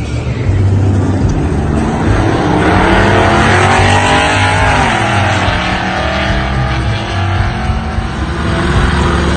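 Truck engine revving hard, its pitch climbing and then falling back about halfway through, over a dense rushing noise.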